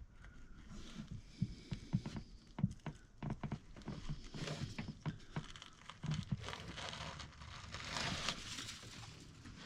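Light, irregular clicks, taps and scraping of small hand tools working at a freshly tapped bolt hole in the engine, with a longer scrape about eight seconds in.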